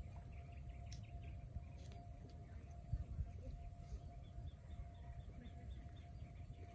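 A bird gives a quick run of short chirps, about five a second, midway through. Under it runs a low steady rumble and a faint steady high-pitched whine.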